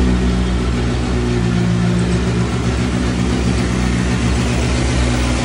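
Ford Fiesta rallycross car's turbocharged 2.0-litre Cosworth YB four-cylinder engine running steadily, loud and at an even pitch.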